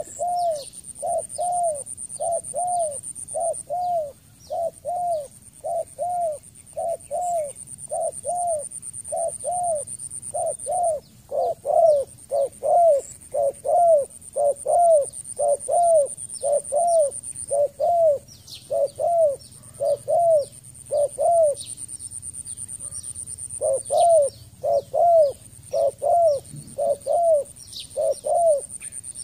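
Spotted dove giving short, rapid coos, about two a second, in long runs with one pause of about two seconds before they resume. Faint high chirps of small birds and a steady thin high-pitched hum run underneath.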